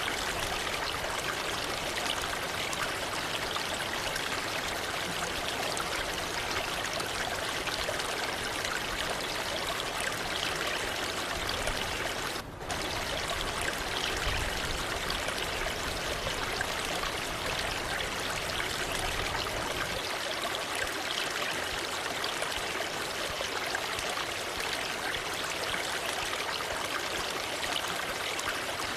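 Waterfall splashing and rushing steadily, an even wash of falling water with a split-second break about twelve seconds in.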